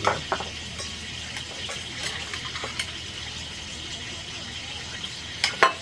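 Steady low hum of an appliance running, with scattered light clicks of tableware and a couple of sharper clicks near the end.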